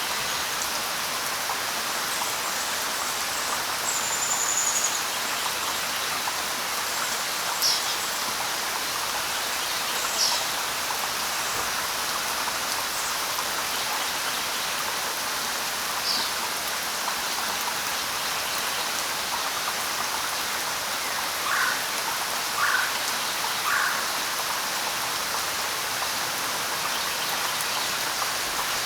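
Steady light rain falling on leaves, with scattered bird calls: a few short, high, falling chirps in the first half, and three lower calls about a second apart past the middle.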